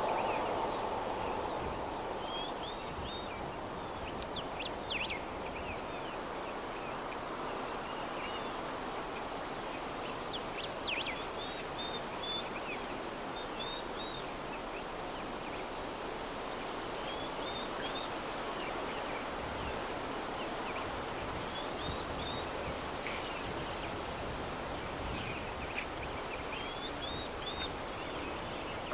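Soft, steady breeze with small birds chirping: short runs of quick chirps every few seconds.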